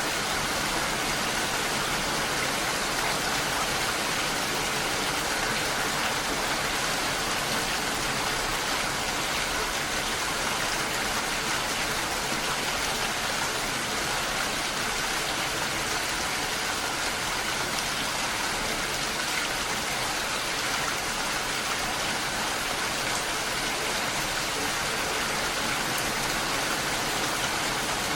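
Steady, even rainfall hissing without pause.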